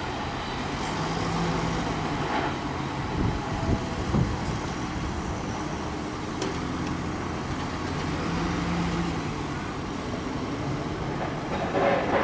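Electric suburban train running along the line toward the station, a steady rumble with a faint low hum that comes and goes.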